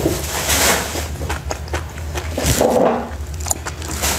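Close-up mouth sounds of chewing: many wet smacking clicks, with two longer hissing rushes about half a second and two and a half seconds in, over a low steady hum.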